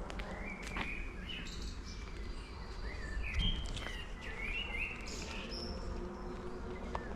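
Songbirds chirping and calling in short, repeated phrases over a steady low background rumble.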